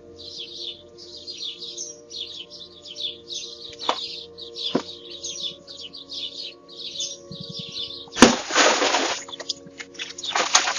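Birds chirping continuously, over a faint steady drone of background music. About eight seconds in, a sudden loud crash sets off a second of harsh noise, and a shorter noisy burst follows near the end.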